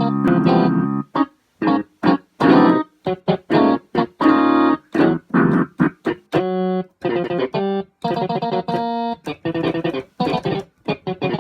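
Electronic keyboard played in short, jumbled notes and clashing chords, starting and stopping many times, with a plucked, guitar-like tone.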